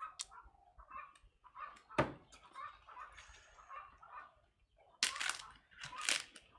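A few sharp knocks and clicks, the strongest about two seconds in, followed near the end by two short rustling bursts of noise.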